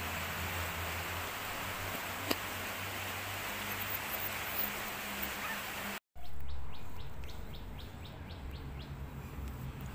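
Steady rain hiss, with a single sharp click a couple of seconds in. It cuts off abruptly about six seconds in, and a bird chirps in a quick, even series, about four or five chirps a second.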